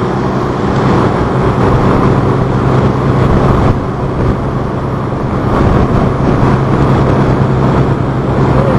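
Motor launch's engines running steadily underway, a constant drone over a broad rushing noise, easing slightly a little before halfway.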